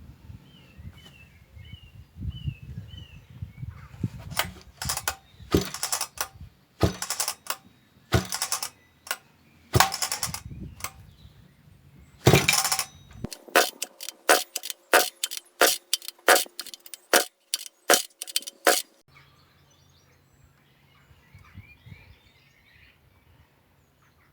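Husqvarna 2100CD chainsaw's recoil starter pulled over and over, cranking the engine with a compression gauge in the plug hole: a run of sharp pull-and-crank strokes from about four seconds in until near the end, some in longer groups, then quicker ones, as the gauge builds to its reading. This is a compression test on the freshly rebuilt engine, which reads 160 psi.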